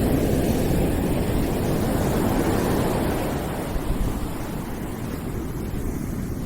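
A steady, deep noise sound played as a calming background track: an even rush with no pattern or rhythm, fuller in the low end than in the highs.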